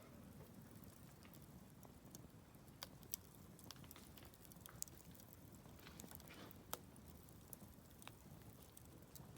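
Wood bonfire crackling quietly, with scattered, irregular sharp pops over a faint low rustle of burning.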